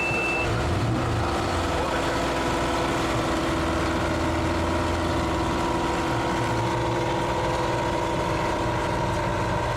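An engine idling steadily, with a brief high beep right at the start.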